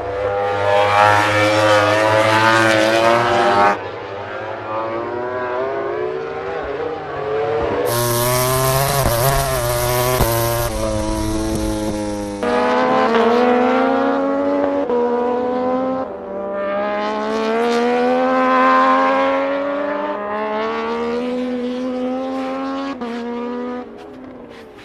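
MotoGP racing motorcycle engines at high revs, the pitch climbing and dropping as the bikes accelerate, shift and brake, in several short clips with abrupt cuts between them.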